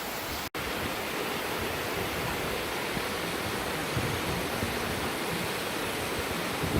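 Steady rushing noise, even across low and high pitches, with a brief dropout about half a second in.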